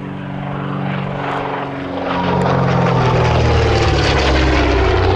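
A de Havilland DH.88 Comet's twin Gipsy Six piston engines and propellers growing louder as it flies past. The engine note drops in pitch from about two seconds in.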